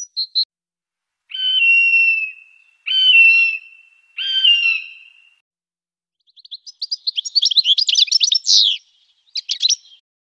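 A few short high chirps, then three drawn-out whistled bird calls, each holding one pitch and dipping slightly at the end. About six seconds in, a European goldfinch's fast twittering song follows, with a short second burst near the end.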